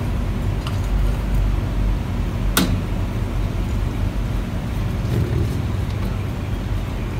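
A steady low mechanical hum, with a single sharp click about two and a half seconds in.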